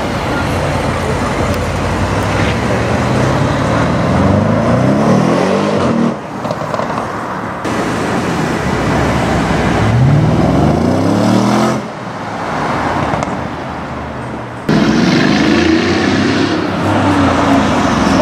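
Cars accelerating away one after another, among them an Audi RS7 and an Audi RS6 with their twin-turbo V8s. The engine note rises in pitch as the revs climb, twice clearly. The sound changes abruptly several times as one car gives way to the next.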